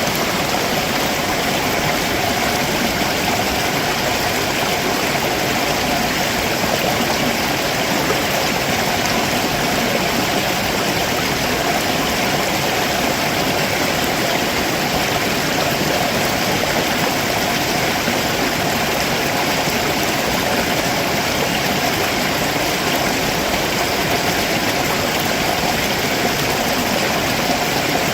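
A rocky stream below a waterfall, water running and splashing over rocks in a steady, even rush.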